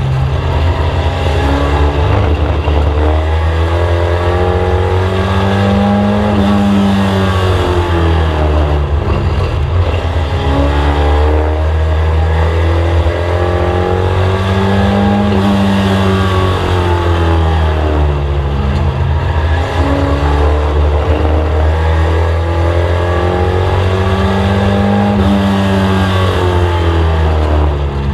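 Mk1 VW Scirocco's four-cylinder engine heard from inside the race car, its pitch climbing and falling in a slow cycle about every nine to ten seconds as it revs up and eases off lap after lap on a short oval, over a constant low drone.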